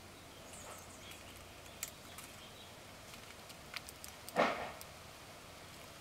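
Quiet garden ambience with a few faint high bird chirps and light ticks, and one short rustle about four and a half seconds in that is the loudest sound.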